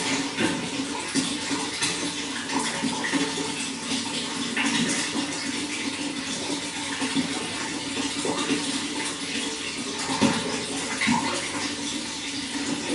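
Running water flowing and splashing steadily, a continuous rush dotted with many small splashes.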